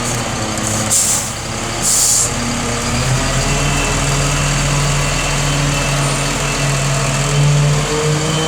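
Freightliner M2 106 garbage truck's diesel engine idling steadily, with two short hisses of released air about one and two seconds in.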